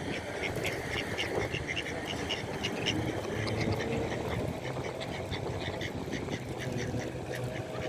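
Many birds chirping and chattering in rapid, repeated short notes, busiest in the first few seconds and thinning out later, over a steady low background rumble.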